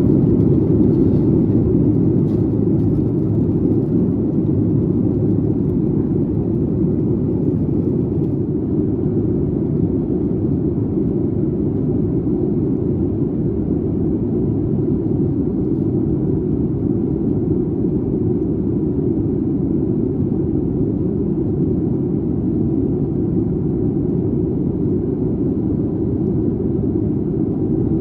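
Steady low rumble of in-flight cabin noise aboard a Boeing 737 MAX 8: engine and airflow noise heard from a window seat just behind the wing.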